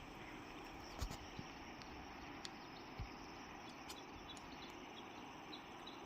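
Faint rural outdoor ambience: a steady hiss with a few sharp clicks, and a run of short high chirps near the end.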